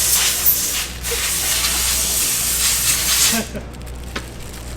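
A loud, steady hiss of spraying air or liquid, cutting off about three and a half seconds in.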